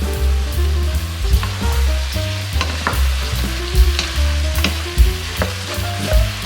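Pork sizzling as it is sautéed in a pan and stirred, with the sharp clicks of a utensil against the pan, over background music with a stepping bass line.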